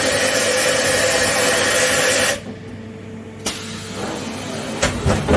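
Mazak H-500/40 machining centre giving off a loud hiss that cuts off sharply about two and a half seconds in. A click and a few clunks from the machine follow near the end.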